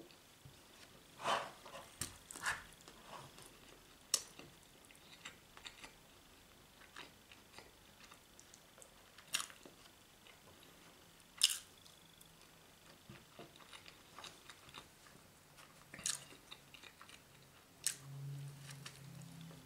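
A person chewing a mouthful of canned ham on bread, with irregular wet mouth clicks and smacks, then taking another bite near the end.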